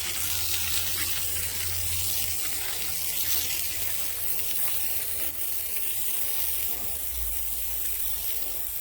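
Sawmill blade cutting steadily through a wide maple log: an even hiss over a low steady hum from the mill's motor, which drops lower about seven seconds in.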